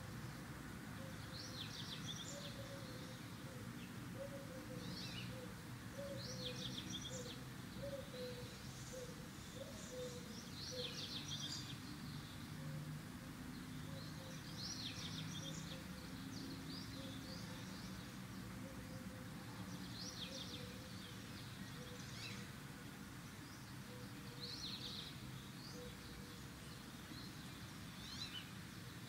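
Small birds chirping in short clusters every second or two, over a steady low background hum.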